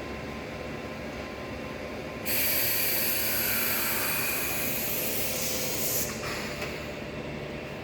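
Pouwels DEF 1000 CNC wood router running with a steady machine hum. A couple of seconds in, a loud high-pitched hissing whine starts abruptly, lasts almost four seconds and cuts off suddenly.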